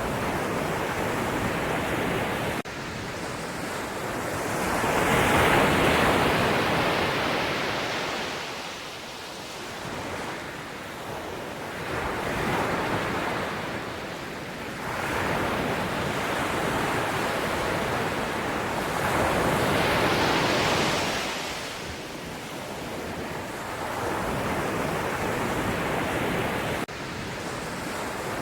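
Sea waves breaking and washing in, the rush of surf swelling and fading every few seconds.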